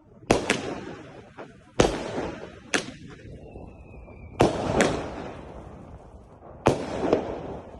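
Consumer firework batteries (cakes) firing: about eight sharp bangs, several in close pairs a second or two apart, each trailing off in an echo. A faint thin whistle sounds a little past three seconds in.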